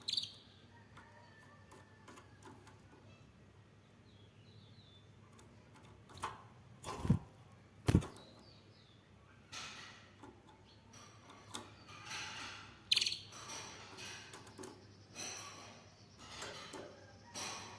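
A few faint canary chirps, then two sharp thuds about a second apart and a run of rustling, flapping-like noises.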